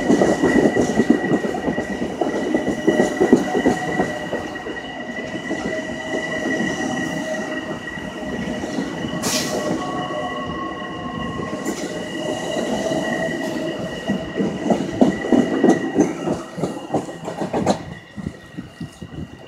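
A train running through the station, its wheels clattering and rumbling on the rails, with a steady high-pitched wheel squeal over it; the sound dies away near the end.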